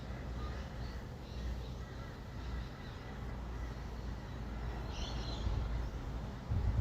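Steady low rumble of distant city traffic, with faint scattered bird chirps and a short rainbow lorikeet call about five seconds in.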